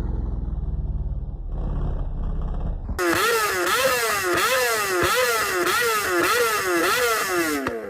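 Yamaha R6 sportbike's inline-four engine through a loud aftermarket exhaust, running low and steady, then about three seconds in revved hard in about eight quick blips under a second apart, the pitch rising and falling each time before dropping away near the end.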